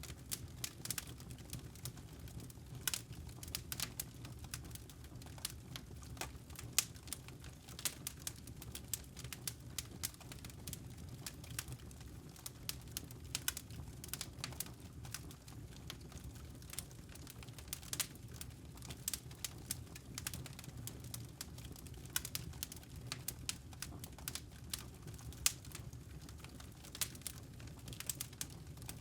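Campfire with burning wood logs crackling: irregular sharp pops and snaps over a steady low rumble of the flames.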